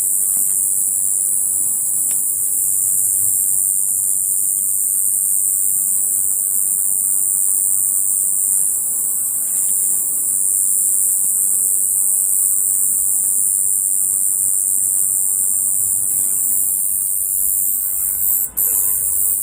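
Cicadas singing: one continuous, very high-pitched shrill buzz that holds steady, with a brief break near the end.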